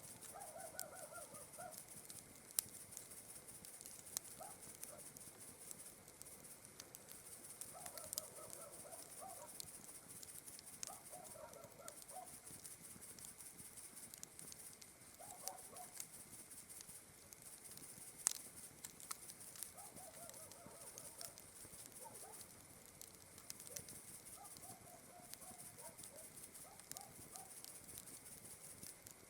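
Campfire crackling with scattered sharp pops, over a steady high chirring of night insects. Short pitched animal calls of about a second come every few seconds.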